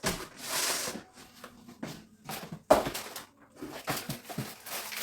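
Packets and containers being handled and moved about on a kitchen cupboard shelf: rustling and scraping, with one sharp knock a little past halfway as something is set down.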